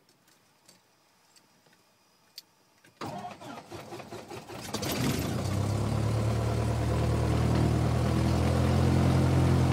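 Cessna 172's piston engine starting. About three seconds in the starter cranks it with an uneven chugging, and about two seconds later it catches and settles into a steady idle.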